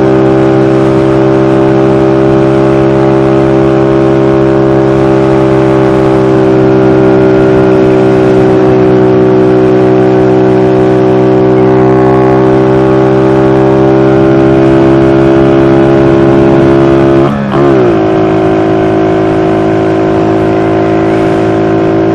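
SSR Razkull 125 pit bike's small single-cylinder four-stroke engine running steadily at cruising speed, heard from the rider's helmet camera. About seventeen seconds in the engine note breaks briefly and dips, then carries on at a slightly lower pitch.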